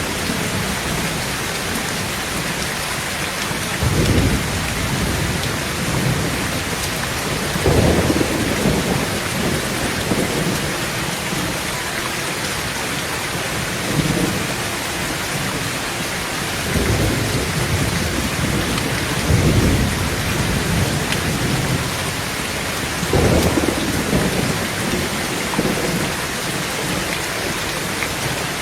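Heavy rain falling steadily on a tin roof, with about six low rolls of thunder rising and fading through it. The strongest rolls come about four, eight and twenty-three seconds in.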